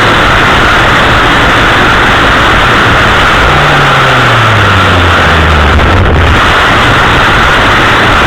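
Chainsaw running hard, close and very loud, a steady engine noise with a deeper tone that sags lower for a few seconds midway.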